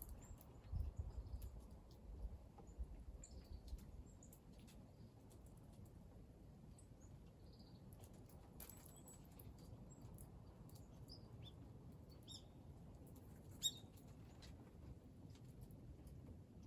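Faint, scattered short chirps of small wild birds over a quiet background, with a few low thumps in the first few seconds and one sharp click about three-quarters of the way through.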